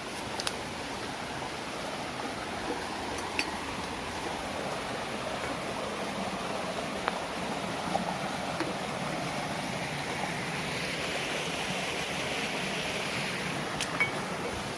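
Waterfall water rushing steadily, with a few faint clicks scattered through it.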